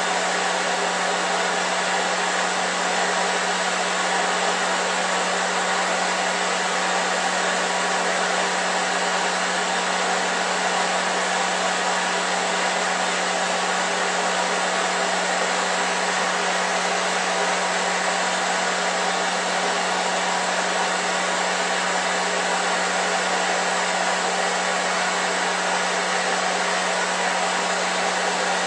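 Gas torch flame hissing steadily while brazing bronze onto steel rebar, with a steady low hum underneath.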